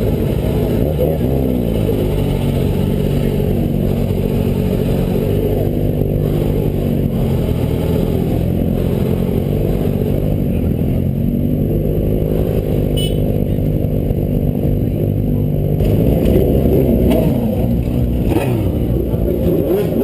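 Several motorcycle engines running and revving at once, their pitches rising and falling across one another, a little louder about three-quarters of the way through.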